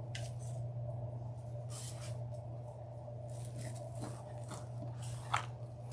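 Jute mesh being handled, crinkling and rustling in short scattered bursts, with a sharper click near the end. A steady low hum runs underneath.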